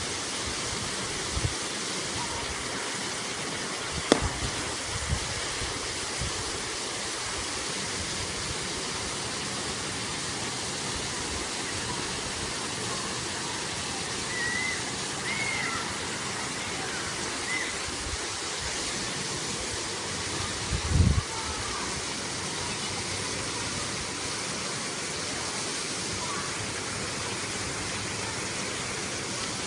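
Steady rushing roar of a 12-metre waterfall, with a few brief low thumps, the loudest about two-thirds of the way in.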